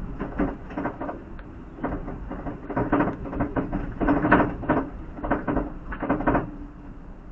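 Car driving, heard from the cabin: a steady low road rumble under an irregular run of short knocks and rattles, several a second.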